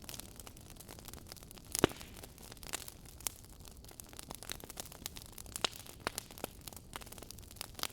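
Fireplace fire crackling: irregular sharp pops and snaps over a low steady hiss, with one louder pop about two seconds in.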